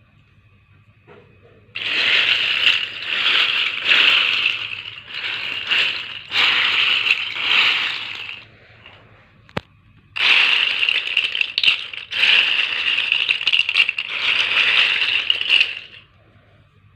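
Plastic water bottle caps rattling and clattering against one another in two long stretches, with a single sharp click between them.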